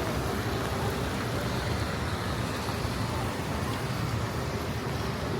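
Steady city street traffic noise: cars and other vehicles running along the road, an even low rumble with no single event standing out.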